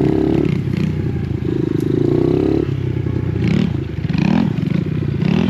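Motorcycle engine running, its pitch rising and falling as it is revved up and down several times.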